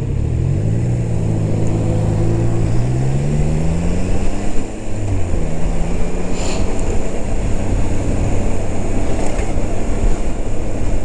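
Motorcycle engine pulling away from a stop: the engine note rises steadily for about four seconds, drops briefly at a gear change, then runs at a steady pitch with road and wind noise.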